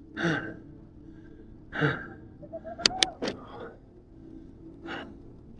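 A cyclist breathing hard while pedalling up a steep hill: four heavy exhalations about a second and a half apart. Two sharp clicks sound about three seconds in.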